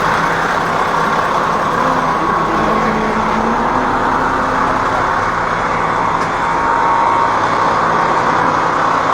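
Hino E13C inline-six diesel engine running steadily, now starting and staying running with its new high-pressure fuel pump fitted.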